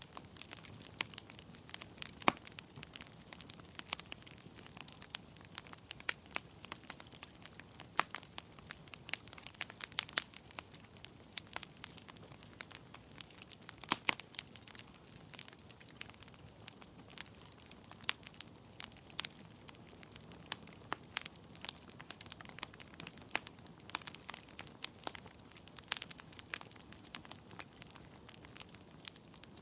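Wood fire burning in a fireplace: logs crackling and popping in irregular sharp snaps over a low steady hiss of the flames.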